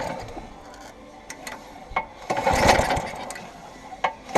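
Qualcast Classic Petrol 35S lawnmower's petrol engine being pull-started on a dash of petrol poured into the spark plug hole: a pull about two seconds in turns it over without catching, and near the end it fires and starts to run.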